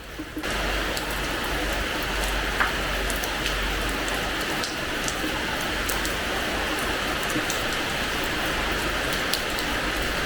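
Rain falling on a hard terrace floor: a dense steady hiss with scattered sharper drop ticks. It thickens suddenly about half a second in and then stays even.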